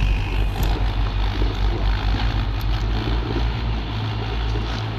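Heavy diesel engine running under load, a steady low rumble with a pulsing beat.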